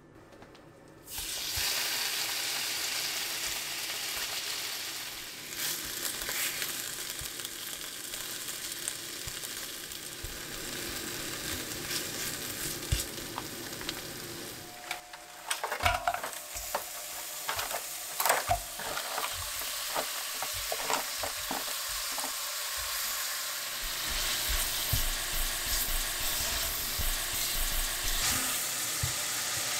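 Food sizzling steadily in a frying pan as sauce-coated deodeok roots are pan-grilled, with a run of short clinks and scrapes of a utensil against the pan around the middle. Near the end, thin slices of beef brisket sizzle louder in a stainless steel pot as they are stirred.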